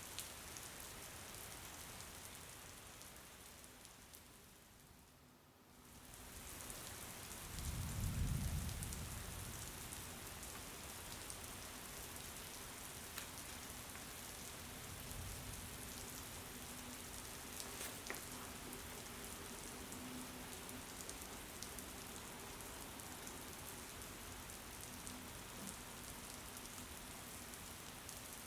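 Rain falling steadily, with scattered ticks of single drops. The rain sound fades down and swells back up around five seconds in. A brief low rumble follows about eight seconds in, with a fainter one a few seconds later.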